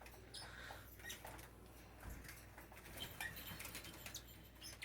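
Faint budgerigar sounds: a few soft, short chirps and light rustles over a low steady hum.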